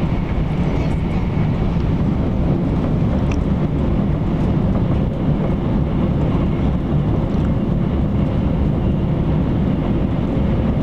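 Interior running noise of an E4 series Max double-decker Shinkansen travelling at speed: a steady low rumble of wheels and running gear, heard inside the passenger cabin, with a faint steady whine above it.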